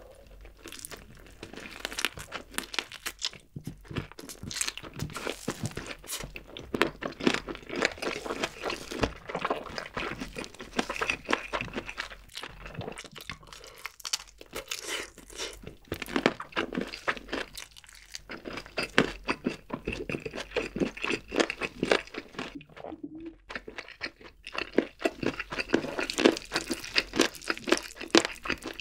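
Close-miked crunching and chewing of crispy fried chicken: many irregular crackly crunches of the fried crust between the teeth, with a few brief pauses.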